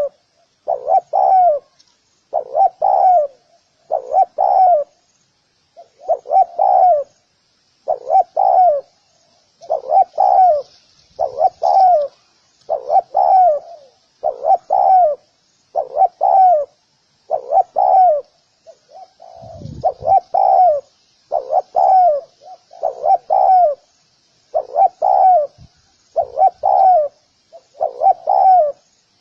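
Spotted dove cooing over and over, short paired coos repeating roughly every second or two without a break.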